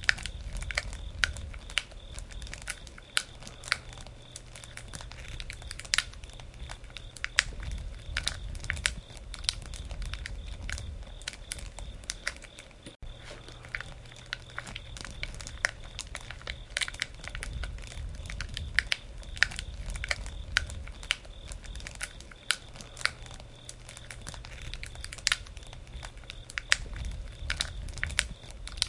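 Wood campfire crackling, with many irregular sharp pops and snaps over a low, steady rumble of the flames.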